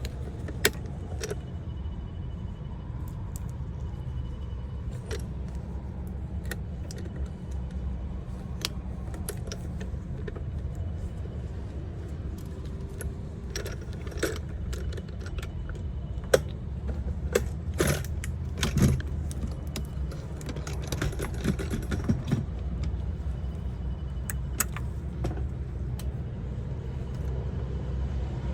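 Light metallic clinks and clatter, like hand tools or small metal parts being handled, scattered irregularly and busiest in the middle, over a steady low rumble.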